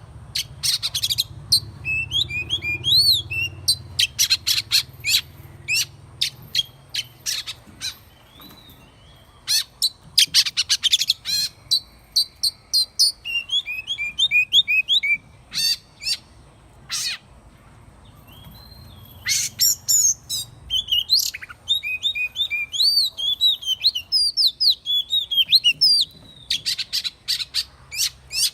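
Oriental magpie-robin singing: phrases of sharp clicking notes mixed with quick whistled notes that rise and fall, with a lull of a few seconds past the middle.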